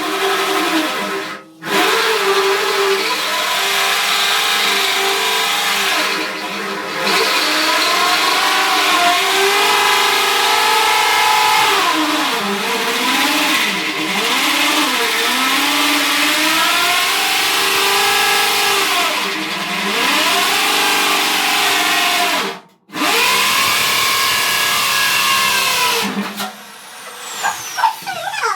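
Electric drill running under load while drilling holes, its motor pitch repeatedly sagging and recovering as the bit bites. It stops briefly twice and winds down near the end.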